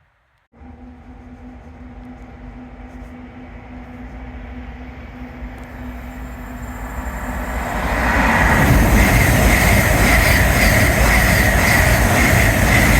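A train approaching and passing through a station at speed, growing steadily louder until it is loud and rushing from about eight seconds in.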